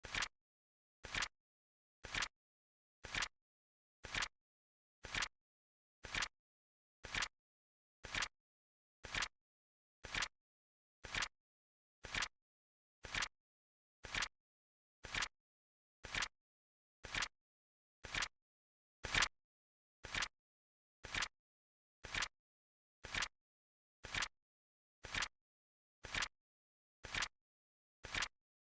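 Flip-clock timer sound effect: a short, sharp click once a second, evenly spaced, with silence between. One click about two-thirds of the way through is a little louder.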